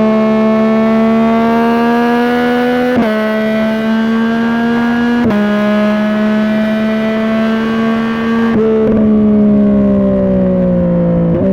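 2021 Yamaha MT-09's 890 cc inline-three engine running through a Dominator GP3 aftermarket exhaust at highway speed. It pulls steadily, with quickshifted upshifts cutting the pitch twice in the first half, then rolls off and falls in pitch, ending with a quick blipped downshift.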